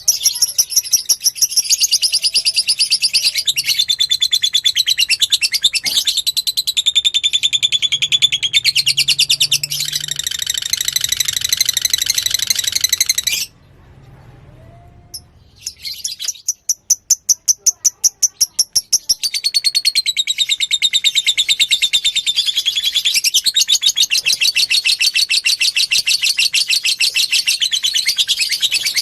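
Fighter-type lovebird singing long, rapid chattering trills, the fast runs of high notes of its extended song. The song breaks off for a few seconds about halfway through, then starts again.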